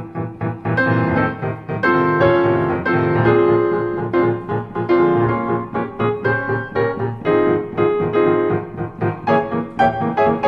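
Solo piano music, played with quick struck notes and chords.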